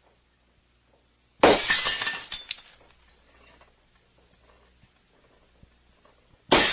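A piece of dishware smashing about a second and a half in, its shards tinkling and settling for about a second afterwards. A second smash starts right at the end.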